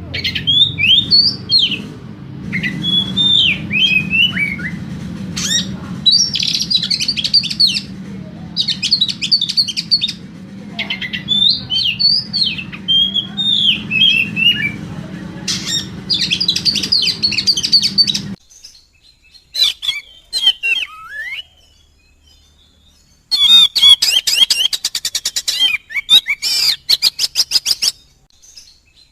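Oriental magpie-robin singing a loud, varied song of gliding whistles and chattering phrases, ending in a fast run of repeated notes. A low hum underneath cuts off abruptly about two-thirds of the way through.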